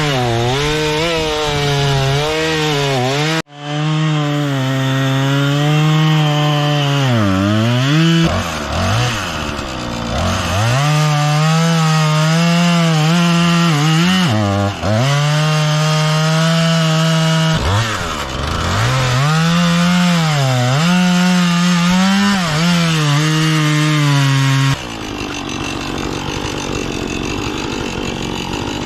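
Gas chainsaw cutting wood, held at high revs and dipping in pitch again and again as it bogs in the cut or comes off the throttle, then picking back up. Near the end the saw stops and a lower, steadier engine sound takes over.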